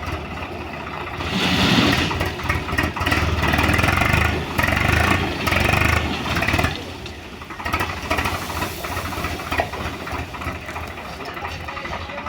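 Heavy diesel machinery engine running, working harder and louder from about a second and a half in, then easing back to a steadier, quieter run after about six and a half seconds.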